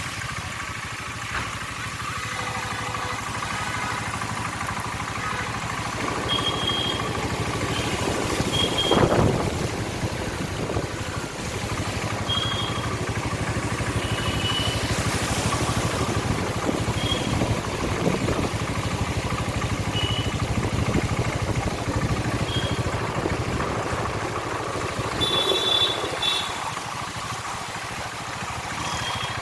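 Traffic running along a waterlogged road, one vehicle passing close about nine seconds in. Short high beeps sound now and then.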